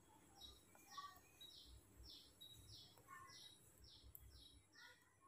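Faint bird call: short falling chirps repeated evenly about twice a second, with a few softer, lower calls mixed in.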